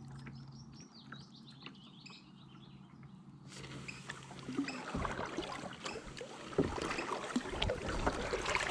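Eurasian oystercatcher giving a rapid series of shrill piping calls, then about halfway in the splash and drip of kayak paddle strokes in the water takes over, louder toward the end.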